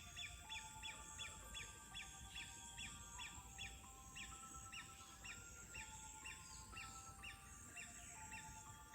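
A bird repeating a short, falling chirp about two or three times a second, faint, over soft music of slow held notes.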